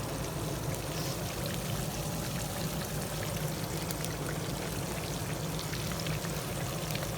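Cornmeal-battered whiting deep-frying in hot grease on a grill, a steady sizzle with small crackles throughout.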